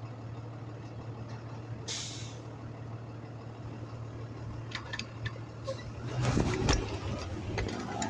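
City street traffic: a steady low engine hum, a short hiss about two seconds in, then scattered clicks and clatter that grow louder near the end.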